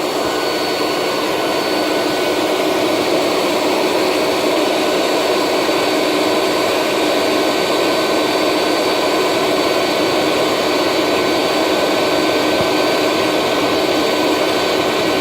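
A blower running steadily, blasting air into a bonfire to fan it: a loud, even rush of air with a steady whine on top.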